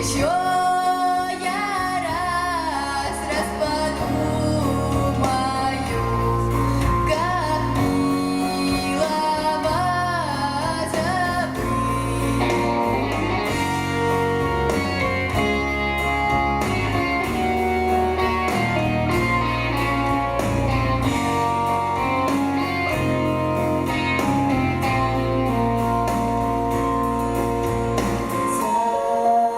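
Solo female voice singing with vibrato over an instrumental backing with a steady bass line; the voice falls away about twelve seconds in and the accompaniment carries on alone.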